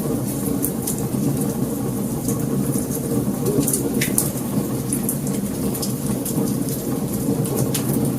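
Wood fire crackling: many irregular sharp ticks and pops over a steady low rushing noise of the burning.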